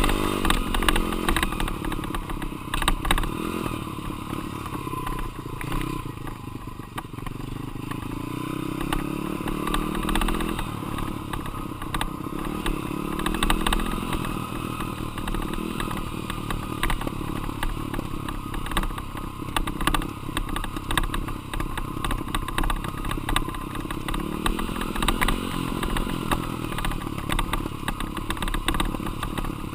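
Dirt bike engine running hard, its pitch rising and falling as it revs up and comes off the throttle, with clear climbs in revs twice.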